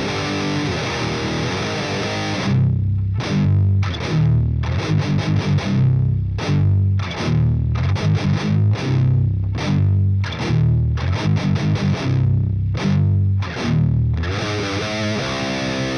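Epiphone Widow Les Paul Custom electric guitar played with heavy distortion. The opening is full and sustained, then a choppy stop-start low riff with short gaps runs from about two and a half seconds in, and fuller, brighter playing returns near the end.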